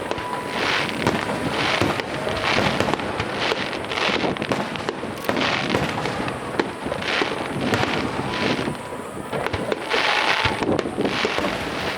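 A dense barrage of aerial firework shells bursting in quick succession, with a continuous crackle under repeated booms, in the display's grand finale.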